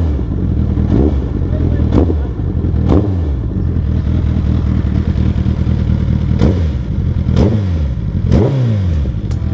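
Royal Enfield Interceptor 650's parallel-twin engine running under way, its pitch rising and falling again and again as the throttle is opened and closed.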